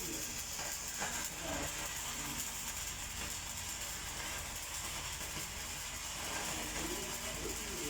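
Steady hiss with a low hum underneath, typical of running machinery.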